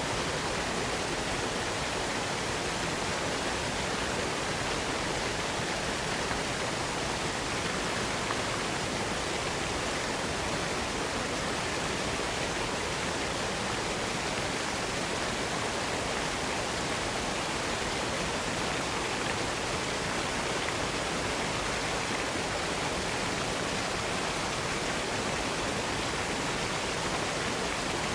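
Waterfall: a steady, even rush of falling water that holds at one level without a break.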